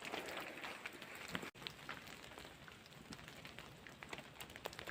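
Light rain falling, a faint steady hiss with scattered sharp drop ticks.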